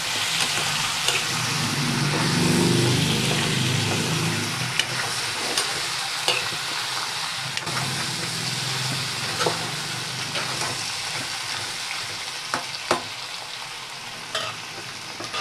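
Chicken, potato and squash pieces sizzling in hot oil in a kadhai while a spatula stirs them, with scattered scrapes and knocks of the spatula against the pan. The sizzle grows gradually quieter toward the end.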